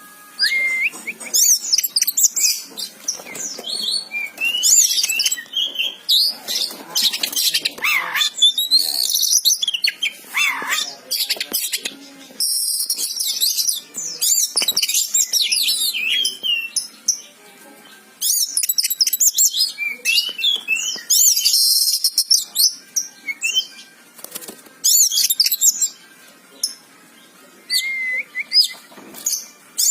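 Oriental magpie-robin (kacer) singing energetically: a fast, varied run of high whistles and trills mixed with harsh scratchy notes, broken by a few short pauses.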